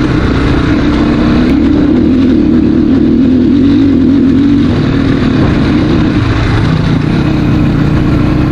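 Dirt bike engine running under way, its pitch wavering with the throttle, then dropping about five seconds in and settling to a lower steady note.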